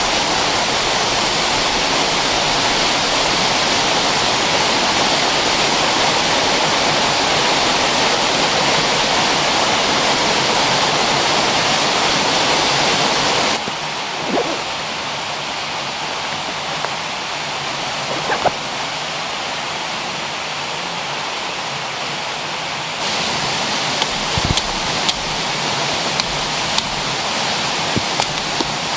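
Steady rushing of a waterfall on a mountain river, a dense even noise. It steps abruptly quieter about halfway through and louder again near the end. A few light clicks and knocks sound in the last few seconds.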